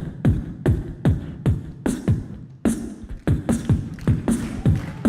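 Human beatboxing: a steady groove of deep, falling kick-drum thumps with sharp snare and hi-hat clicks, about three beats a second, several drum sounds layered at once by mouth.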